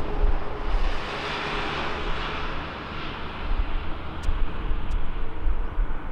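Jet airliner engine noise, a broad rush that swells about a second in and eases off after a few seconds, over a gusty low rumble of wind on the microphone.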